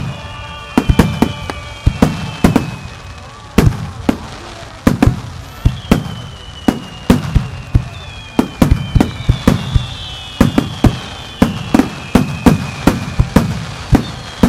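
Star mine fireworks barrage: sharp aerial bursts in quick succession, often several a second, each with a short echoing tail. High whistling tones glide slowly downward over the bangs again and again.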